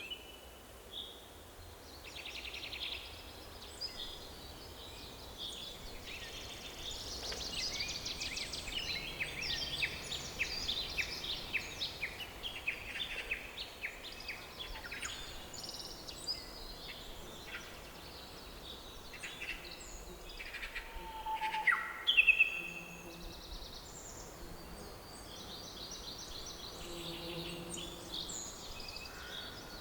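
Several songbirds singing and calling in a forest, with rapid chirping trills and overlapping phrases over a faint steady background hiss; the loudest, sharpest calls come about two-thirds of the way through.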